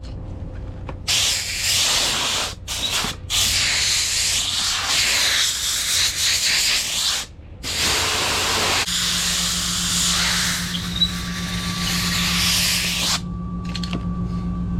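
Compressed-air blow gun blowing out a forklift's air filter element: long hissing blasts of air, cut off briefly a few times, ending about thirteen seconds in. A low steady hum starts about nine seconds in.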